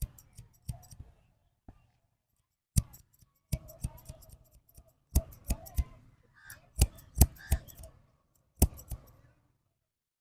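Barber's scissors snipping hair in a run of sharp, irregular snips, some in quick pairs and triplets, with short pauses between.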